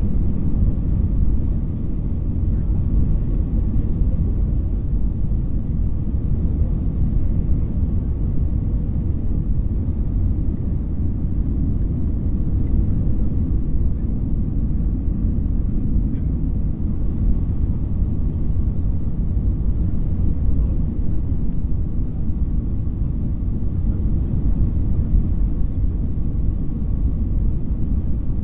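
Steady low drone inside an airliner cabin: engine and airflow noise, even and unbroken.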